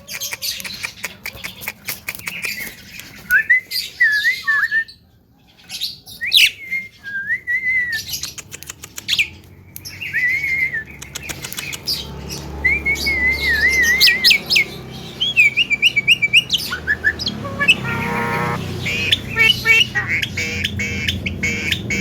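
Young Javan myna (jalak kebo) singing a varied song packed with mimicked phrases: rapid clicks and warbling whistled notes, then a harsh squawk about three quarters of the way in, followed by quick repeated chirps.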